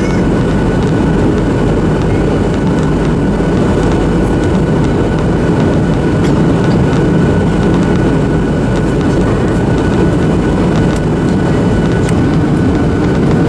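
Steady cabin noise inside a Boeing 737-800: the loud, even rush of its CFM56 jet engines and airflow, with a faint steady whine above it.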